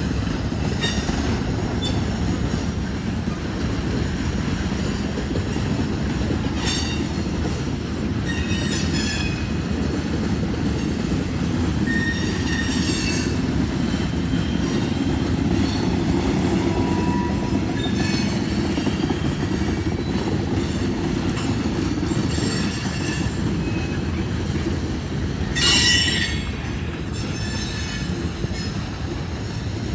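Train rolling along the rails with a steady low rumble, its wheels squealing against the rails again and again; the loudest squeal comes about 26 seconds in.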